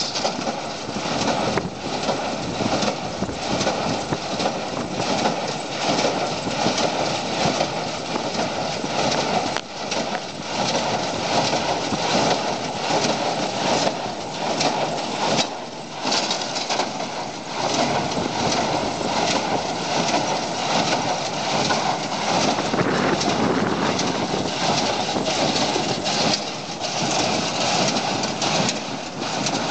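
Landini Blizzard 95 tractor running while pulling a New Holland 270 small square baler at work. It is a steady mechanical din with frequent irregular clatters.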